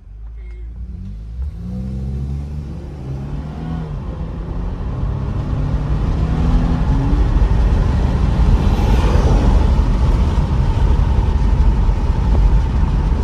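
Lexus IS 300's 3.5-litre V6 accelerating hard, its pitch rising over the first several seconds and growing louder. It settles into a loud, steady rumble of engine, road and wind noise at speed.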